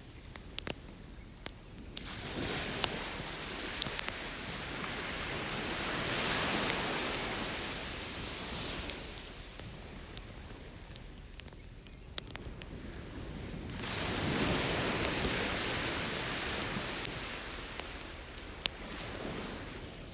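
Ocean waves washing up on a beach, swelling in twice, about two seconds in and again near the middle. A wood campfire crackles and pops in sharp snaps throughout.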